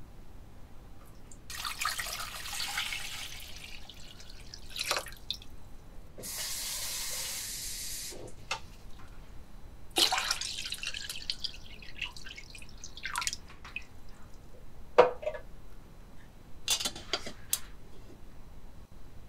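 Water poured from a clear plastic measuring jug into a stainless steel pot, in several separate pours that splash on the metal. A few sharp knocks come in between.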